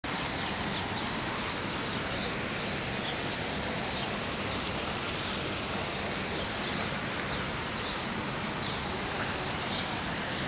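Many small birds chirping in quick, overlapping calls over a steady background hiss.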